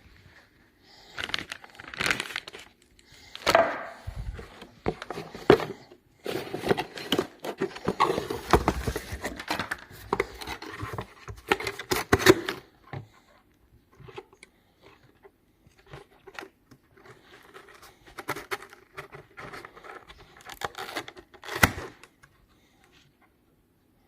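Irregular handling noise: rustling and crinkling with scattered knocks and clicks, busiest in the first half and thinning out before stopping near the end.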